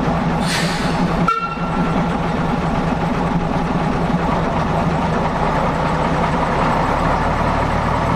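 Diesel railway engine running steadily with a low, even hum, with a brief high tone about a second in.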